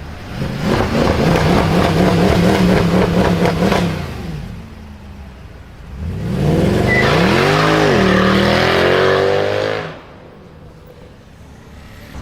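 Mercedes car's very loud exhaust as the engine is revved twice. First it is held at a steady high rev for about three and a half seconds. After a short drop back, the second rev climbs, falls back, holds briefly and cuts off.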